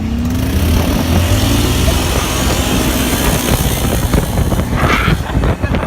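Dirt bike engine pulling away and running at speed, its pitch rising in the first second or two, with heavy wind noise on the microphone.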